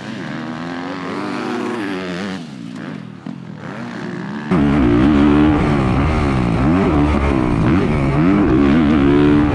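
Dirt bike engine racing, its pitch climbing and dropping over and over as the throttle is worked and gears are changed. About four and a half seconds in it becomes suddenly much louder and fuller.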